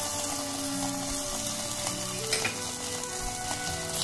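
Garlic, onion and sauces sizzling in hot oil in a frying pan, with a flat spatula stirring and scraping through them as the Schezwan-style sauce base fries. A steady sizzle, with a few light scrapes of the spatula.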